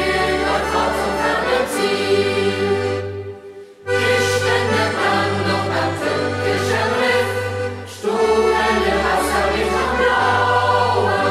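A youth choir singing a German song over held bass notes, the voices pausing briefly between phrases about three seconds in.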